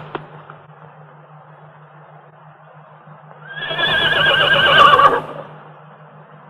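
A horse whinnies once, about two seconds long with a wavering pitch, starting about three and a half seconds in. A low steady hum lies underneath.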